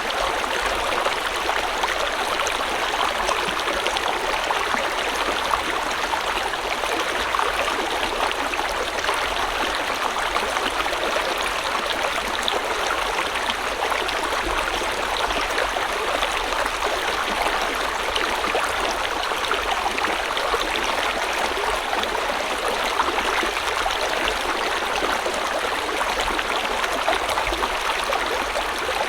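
River water flowing steadily over rocks, a continuous babbling rush with fine splashes and gurgles.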